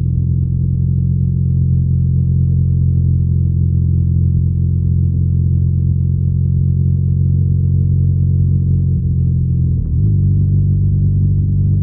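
BMW R nineT's boxer-twin engine and exhaust running steadily while riding. About ten seconds in, the note dips briefly and then carries on at a slightly different pitch.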